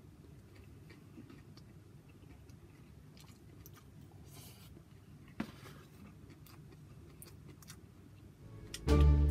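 Faint chewing and small wet mouth clicks and smacks of a person eating fried chicken and rice with his fingers. Loud music with heavy timpani-like drums cuts in near the end.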